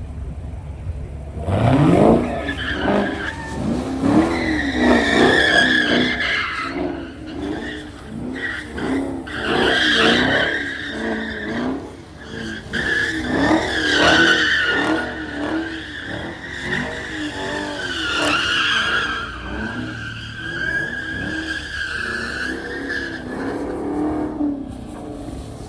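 A car drifting: the engine revs up sharply about a second and a half in, then its pitch rises and falls over and over as the throttle is worked through the slide, while the tires squeal for most of the time.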